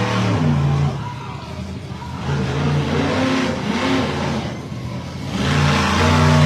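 Monster truck engine revving hard, its pitch climbing and falling as the throttle opens and closes. It eases off about a second in and again around the five-second mark, then surges back loud near the end.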